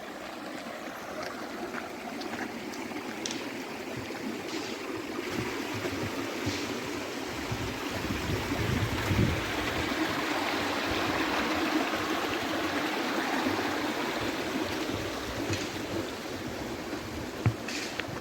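Stream water running, swelling louder toward the middle and easing off near the end, with a few light clicks.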